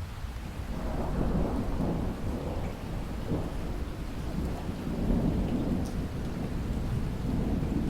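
Steady rain with a low thunder rumble that rolls in about a second in and swells and fades in waves.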